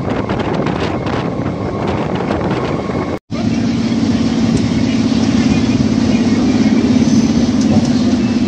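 Wind rushing over the microphone from a moving electric suburban local train, with clicks of wheels on the track. About three seconds in the sound cuts out abruptly, and a steady low electric hum of the train comes in as it runs slowly alongside a station platform.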